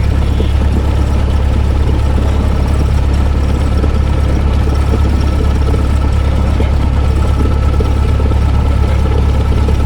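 Cessna 172S's four-cylinder Lycoming IO-360 engine and propeller idling steadily after start.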